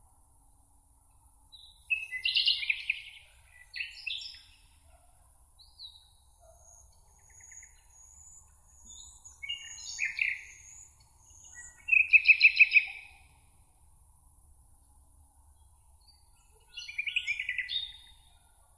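Songbirds singing in a meadow: short trilled phrases every few seconds, with quiet gaps between and the loudest phrase about two thirds of the way in, over a faint steady high hiss.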